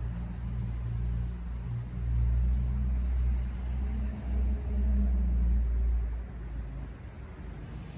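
Low engine rumble of a road vehicle, swelling in the middle and fading away about six and a half seconds in.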